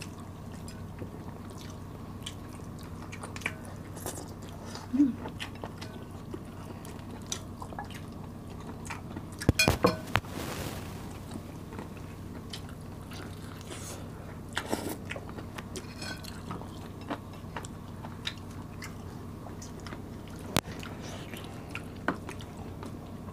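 Close-miked chewing and biting of roast chicken and sticky rice eaten by hand, with many small wet mouth clicks and a brief louder burst of noise about ten seconds in. A faint steady low hum runs underneath.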